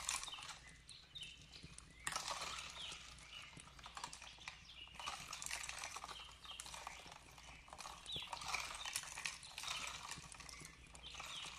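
Fireplace crackling with irregular pops over a steady hiss of flowing water, with short bird chirps repeating softly throughout.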